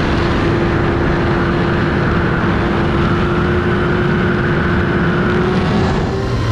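A 2004 Kawasaki ZX-6R's inline-four engine running at a steady cruise under the rush of riding wind. The sound eases off near the end.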